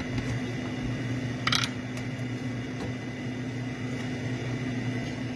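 Steady mechanical hum of a running kitchen-appliance motor, with one short sharp clack about a second and a half in.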